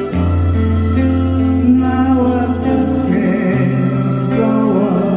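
Live music with singing: a song under way with sustained bass and chordal instrumental accompaniment.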